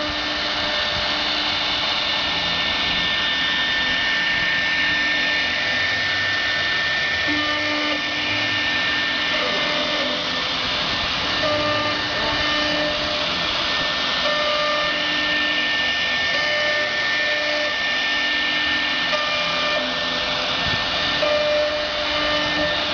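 CNC router running: a steady high spindle whine over a constant rush of noise, with the stepper motors' tones starting and stopping every second or two as the axes move.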